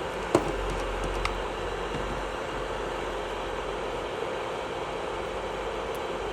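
Electric nail drill (e-file) running at a steady speed with a constant hum while filing off old gel; a sharp click sounds about a third of a second in.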